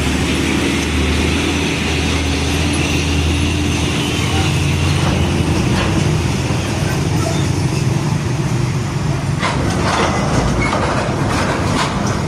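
Large diesel truck engine running close by, a steady low hum that rises slightly in pitch as it goes, with road traffic noise. Several short hisses or knocks come about nine to eleven seconds in.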